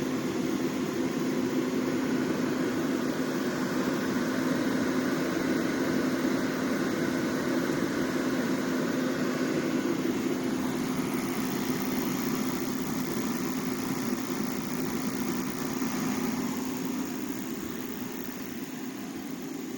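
Heat Star portable propane heater running on high: a steady rush of its burner and fan with a constant low hum, easing a little quieter over the last few seconds.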